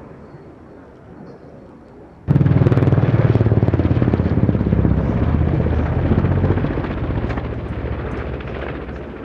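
Helicopter flying close by, its rotor beat loud and fast-pulsing. It cuts in suddenly about two seconds in and slowly fades.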